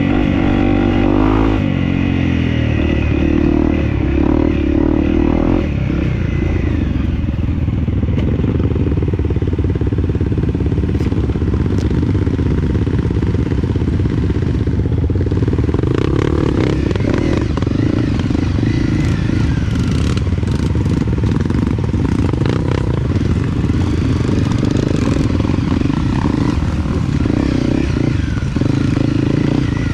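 Dirt bike engine running on a trail ride, its pitch rising and falling with the throttle, with scattered knocks.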